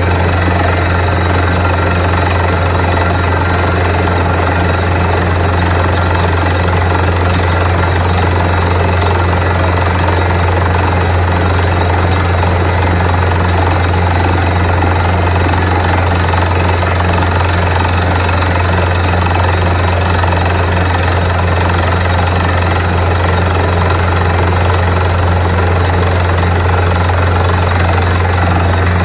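Borewell drilling rig running steadily: a loud, unbroken engine drone with a strong low hum.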